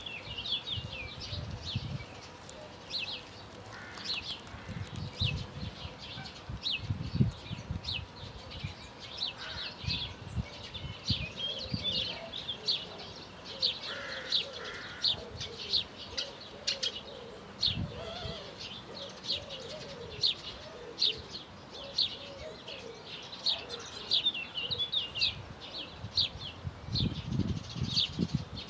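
Small birds singing outdoors, a steady stream of short, high chirps and trills throughout, with brief low rumbles now and then that sound like wind or handling noise on the microphone.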